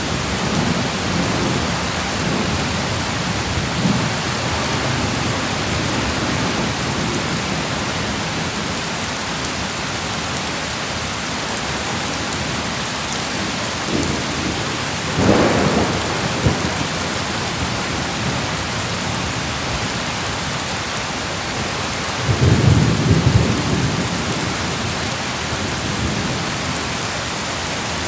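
Steady heavy rain hissing, with thunder rumbling low underneath. The thunder swells about halfway through and comes again more strongly about three quarters of the way in.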